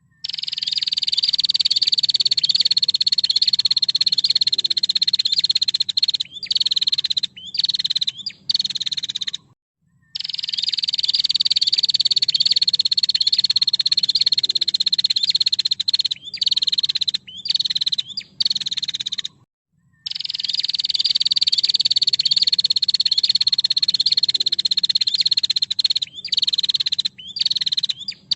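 Female prinia (prenjak) calling: a long rapid trill of about six seconds, sliding slightly down in pitch, then a few short sharp notes. The same sequence repeats three times with brief silent gaps between, as a looped bird-training (masteran) recording.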